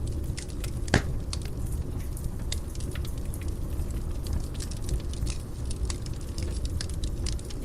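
Fire in a fireplace crackling: a steady low rumble of flames with many small pops, and one louder crack about a second in.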